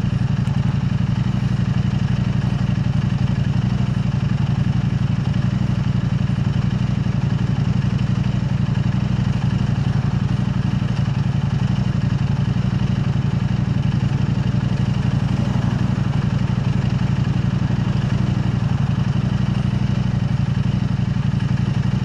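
KTM 890 Adventure R's parallel-twin engine running at a constant engine speed through an Arrow Race-Tech aluminium exhaust, with a steady low note and no revving.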